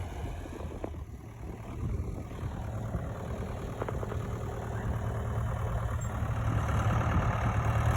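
International BTD6 crawler dozer's diesel engine running steadily under load as it tows bog discs across a paddock, gradually growing louder.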